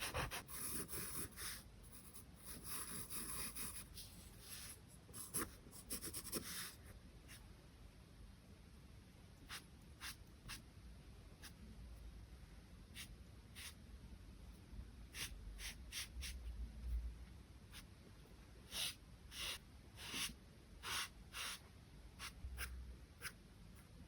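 Charcoal rubbing and scratching on drawing paper. For the first several seconds it is continuous dense shading, then it breaks into separate short strokes with pauses between them.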